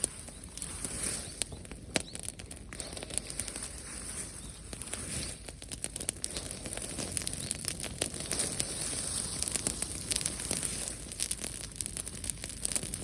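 Dry plant material crackling and rustling: many sharp snaps over a steady hiss, growing denser about halfway through.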